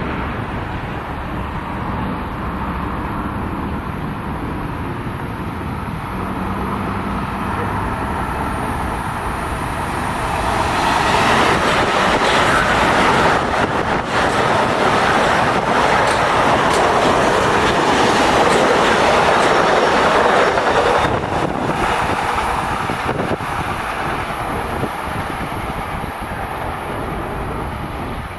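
Long Island Rail Road train passing at speed. The rush of wheels on rail swells about ten seconds in, holds for about ten seconds with a few knocks, then fades away.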